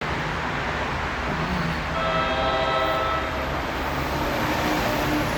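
NJ Transit train sounding its multi-tone horn once for about a second and a half, over the steady rumble of the train running.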